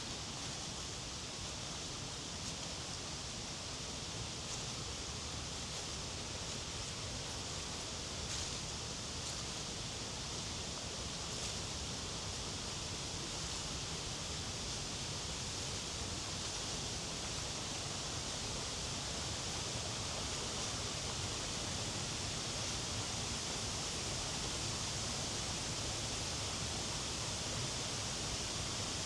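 Creek water flowing steadily by an old wooden water mill, an even rushing hiss that grows a little louder toward the end.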